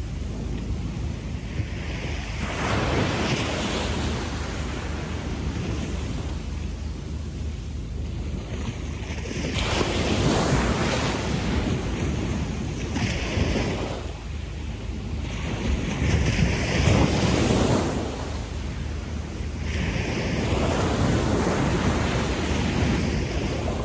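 Gentle sea waves washing up a sandy beach: a steady wash of surf that swells and recedes in several surges, one every few seconds.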